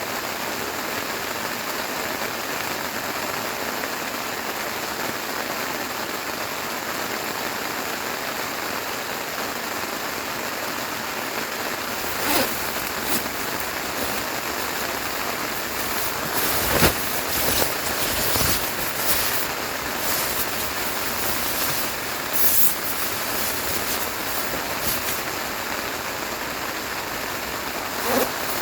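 Steady heavy rain, an even hiss throughout. From about halfway in, scattered sharp knocks and taps stand out above it.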